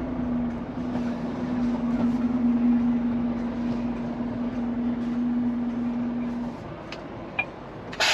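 Scania P410 truck's engine running with a steady drone that fades about six and a half seconds in. A click follows, then a short sharp burst of noise near the end.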